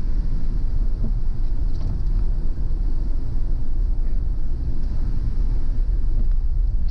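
Car driving on a road: a steady low rumble of tyres and engine.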